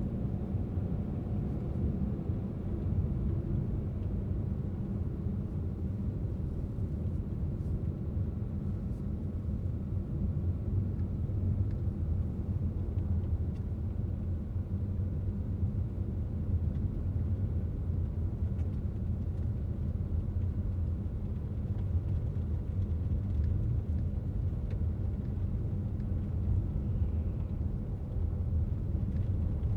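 Car driving steadily, with a low, even rumble of engine and road noise.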